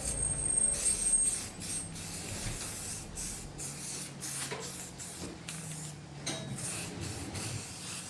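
Aerosol can of spray primer hissing in a series of short bursts, a second coat of primer going on.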